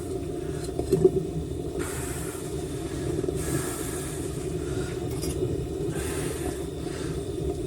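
Propane torch burner firing into a home-made furnace, a steady rumbling hiss. There is a short knock about a second in.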